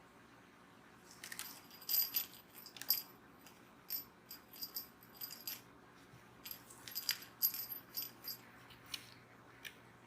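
Small metal bell jingling and rattling in irregular shakes, with two busy clusters about two and seven seconds in and a few single jingles between.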